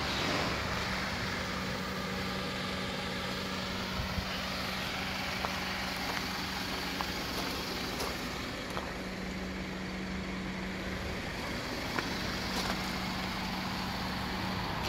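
Honda CR-V II's 2.0 i-VTEC petrol four-cylinder engine idling steadily, with a few faint crunches of footsteps on gravel.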